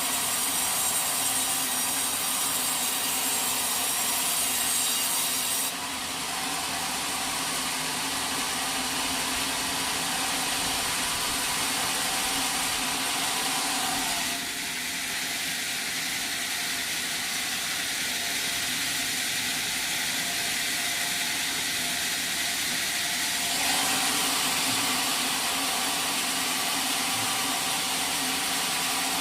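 Sawmill saw running continuously through a log, a steady machine noise with a hum under it. Its character shifts abruptly about six seconds in, again near the middle, and about two-thirds of the way through.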